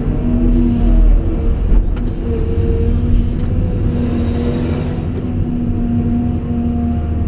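Cat 349E hydraulic excavator's diesel engine running under load, with the hydraulic system whining at a few steady pitches that shift slightly as the machine works.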